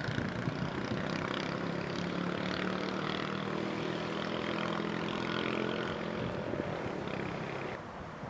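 An engine running steadily, its sound dropping away near the end.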